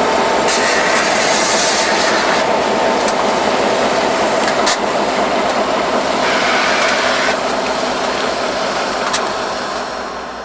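A train passing close by on the track: steady loud rolling noise with a faint steady tone and a few sharp clicks. It fades away over the last couple of seconds.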